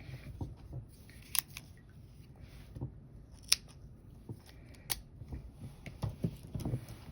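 Scissors snipping yarn: three sharp snips about two seconds apart, with soft handling noise between them.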